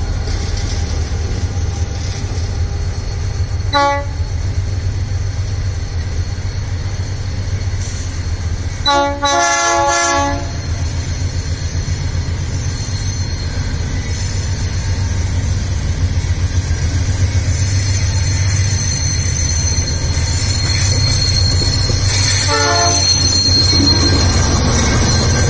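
Diesel locomotives running by with a steady deep engine rumble and rolling wagons, louder near the end as the MRS locomotives pass close. A multi-note locomotive air horn sounds three times: a short blast about 4 s in, a longer blast of about a second and a half about 9 s in, and another near 22 s.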